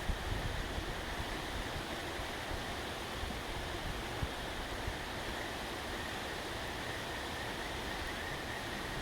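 Steady outdoor hiss with a low, gusty rumble of wind on the microphone and a faint steady high tone, broken by a couple of faint ticks.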